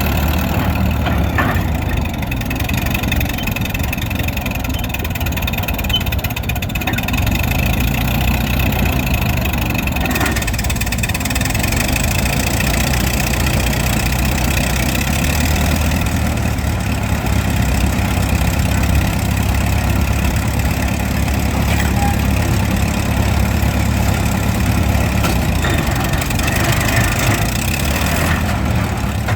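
A large old engine running steadily at idle with a low rumble.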